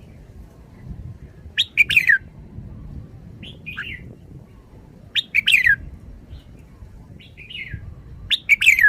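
Red-whiskered bulbul singing: three short, loud whistled phrases about three and a half seconds apart, with softer single calls in between, over a faint low rumble.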